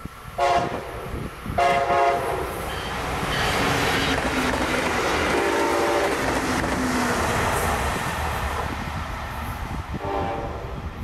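Brightline test train hauled by Siemens Charger SCB-40 diesel-electric locomotives passing: the horn sounds twice in the first two seconds, again mid-pass and once more near the end. Between the blasts is the rush and rumble of the train going by, loudest in the middle seconds.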